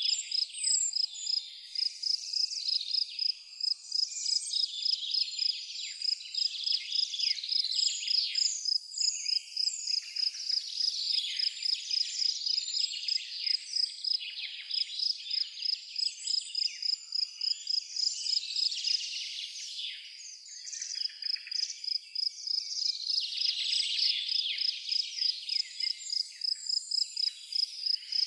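A cricket chirping in an even, high-pitched pulse of about three chirps a second, pausing briefly about two-thirds of the way through, while songbirds sing and twitter over it.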